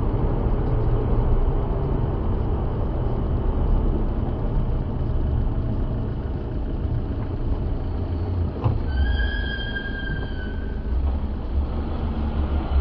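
Steady low rumble of a vehicle driving, road and engine noise. About nine seconds in there is a sharp knock, followed by a high steady tone lasting about a second and a half.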